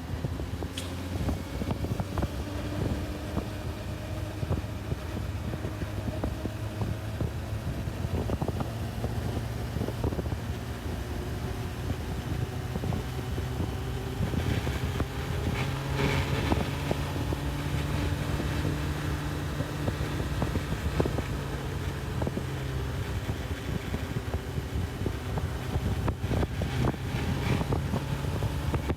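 Onboard sound of a Honda CB1000R's inline-four engine under way at road speed. Its note slowly climbs, eases off and climbs again with the throttle, while wind rushes over the microphone.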